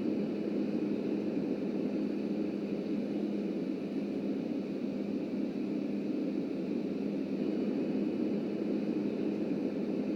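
Subway train running along the track: a steady rumble with a constant low hum and no breaks.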